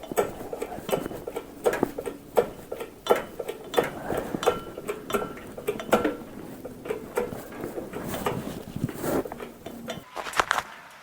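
Irregular metallic clinks and knocks, about one or two a second.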